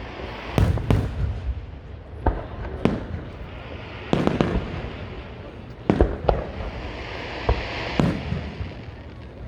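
Aerial fireworks bursting: about ten sharp booms at uneven intervals, some coming in quick pairs, with crackling and hissing between them.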